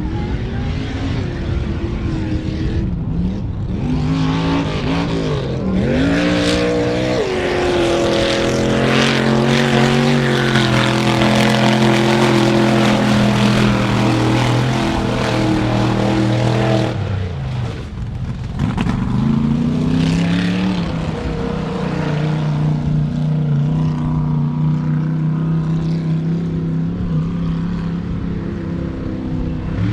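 Truck engine revving hard and held at high revs for several seconds under a wash of noise, dropping off sharply about seventeen seconds in, then climbing again and holding steady.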